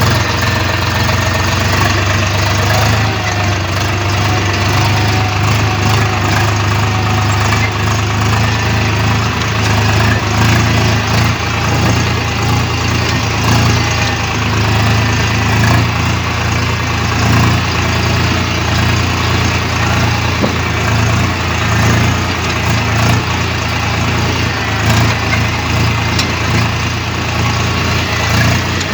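Tractor engine idling steadily with a constant low hum.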